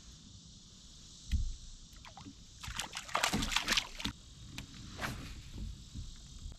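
Water sloshing and splashing around a fishing kayak. There is a dull knock about a second and a half in, and a burst of splashy clatter around the middle.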